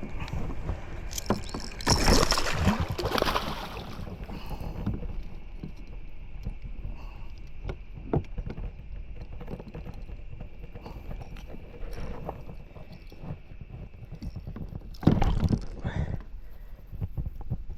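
Water splashing and knocking against a kayak as a hooked Murray cod is brought aboard. It is loudest in two noisy bursts, about two seconds in and again near the end, with a faint steady high-pitched tone in between.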